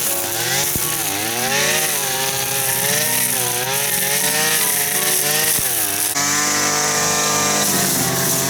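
A small engine running continuously, its pitch swinging up and down as it revs and bogs under load, then held at a steady high pitch for a moment near the end.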